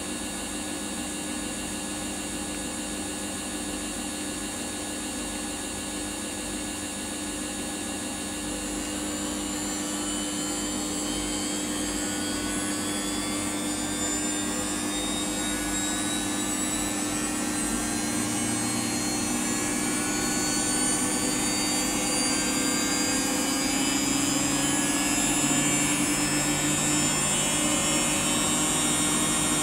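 Samsung washing machine's drum motor whining as the drum speeds up: from about a third of the way in, the whine rises steadily in pitch and grows louder, over a steady low hum.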